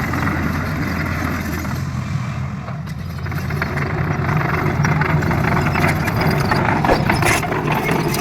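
Excavator's diesel engine running steadily, dipping briefly about three seconds in, then picking up again.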